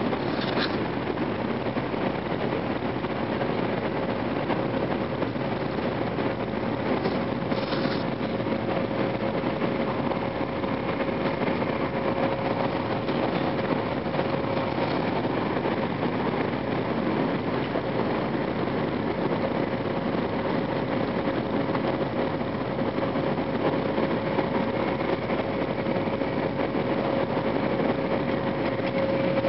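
Cabin noise of an N700 series Shinkansen running: a steady rumble with a constant hum beneath it, and a couple of faint clicks about a second in and about eight seconds in.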